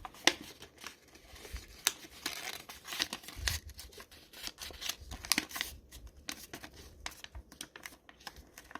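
Square origami paper being folded and creased by hand: crinkling and rustling with many small, sharp crackles as the sides are folded in to the center.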